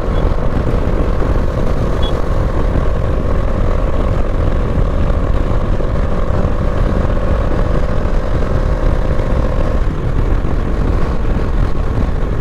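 Bajaj Dominar 400's single-cylinder engine running steadily at road speed under heavy wind rumble, with a steady tone that drops out about ten seconds in. The bike has developed an engine noise that the rider calls a really bad sound.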